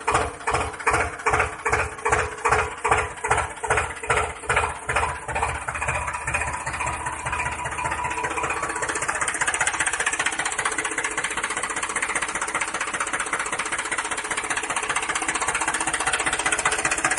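A DIY mini tractor's engine sound, chugging in regular beats that come faster and blend into steady running about six seconds in.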